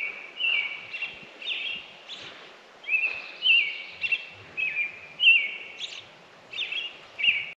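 A songbird singing a string of short whistled phrases, about one or two a second, over a faint steady outdoor hiss.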